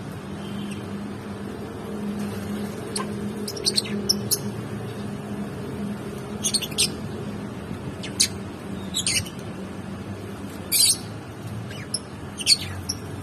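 Lovebirds chirping: short, shrill calls at irregular intervals, some in quick clusters, over a steady low hum.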